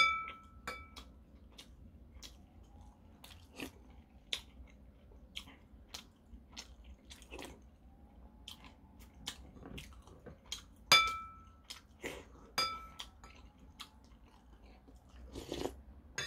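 A person chewing and biting food close to the microphone, with a metal spoon clinking against the dishes a few times, most clearly at the start and about eleven seconds in.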